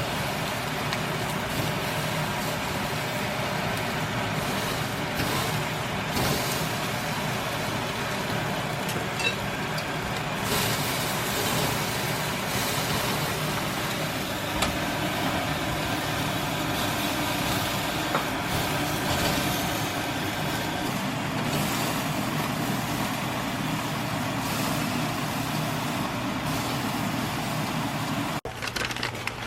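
Steady rushing and humming of road traffic or a running vehicle, which cuts off abruptly near the end.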